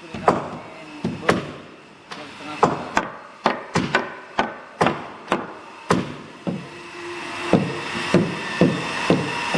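Repeated blows of a hand tool on timber, about two a second in an uneven rhythm, each knock ringing briefly. A steady whine comes in near the end.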